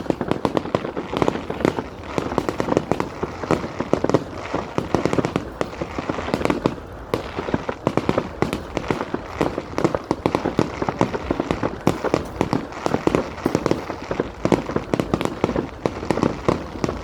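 Fireworks going off in a continuous, rapid string of sharp bangs and crackles, many per second without a break.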